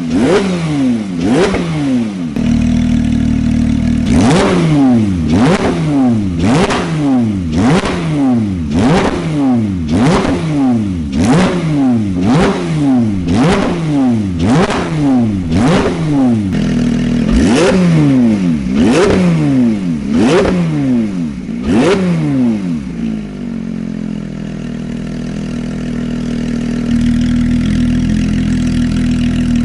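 Porsche 991.2 GT3's naturally aspirated flat-six, breathing through an Akrapovic titanium full exhaust, revved in quick sharp blips about once a second, each falling back straight away. About three quarters of the way through it settles to a steady idle.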